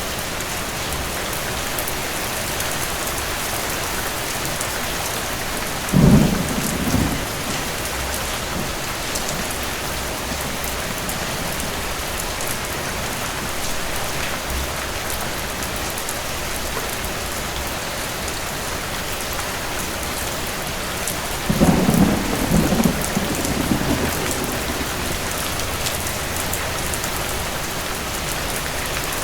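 Steady heavy rain with two thunderclaps: a short sharp one about six seconds in, and a longer rolling one about twenty-two seconds in that rumbles on for a couple of seconds.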